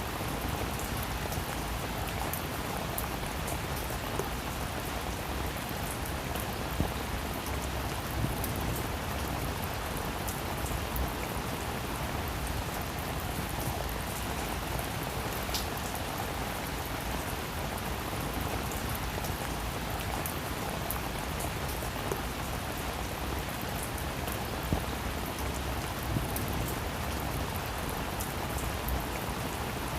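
Heavy rain falling steadily, a dense even hiss with individual drops ticking sharply on a hard surface now and then.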